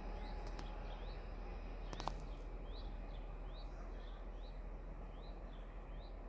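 A small bird calling repeatedly, a short high chirp about twice a second, over a steady low background hum. A couple of faint clicks about two seconds in.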